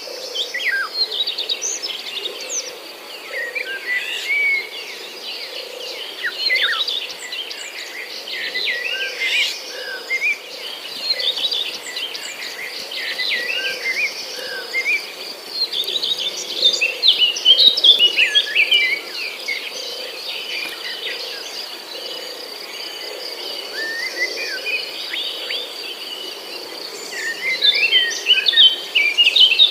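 Many small birds chirping and calling at once, with short, overlapping notes, busiest about halfway through and again near the end, over a steady high tone.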